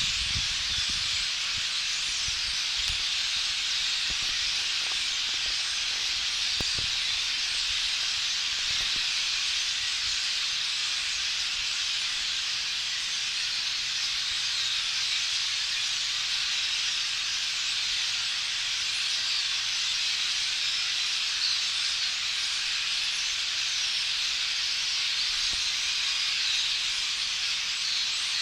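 A large flock of blackbirds, some of them red-winged blackbirds, calling all at once in a steady, dense chattering din, many small chirps blurred together into one continuous wash of noise.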